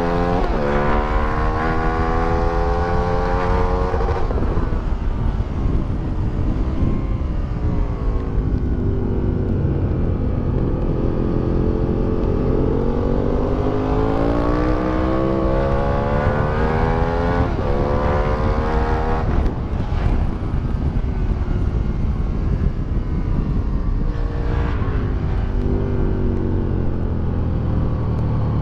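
2008 Aprilia Tuono 1000R's V-twin engine breathing through an Akrapovic exhaust, pulling hard with its pitch climbing under acceleration, then dropping as it slows, several times over. A dense rush of low noise runs underneath.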